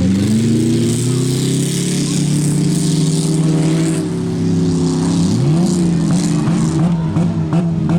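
Compact demolition-derby car engine revving hard and held at high revs, dropping and climbing again about five seconds in. Several sharp knocks near the end.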